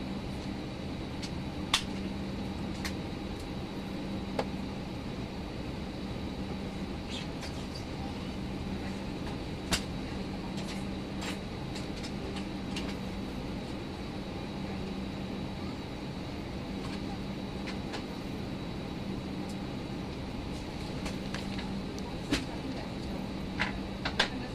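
Steady hum of an Airbus A319 cabin at the gate, its air conditioning blowing, with a constant low tone under it. A few sharp clicks and knocks break in now and then.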